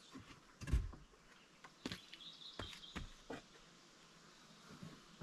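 A bird gives a brief high whistled call about two seconds in, among a few faint scattered knocks and clicks.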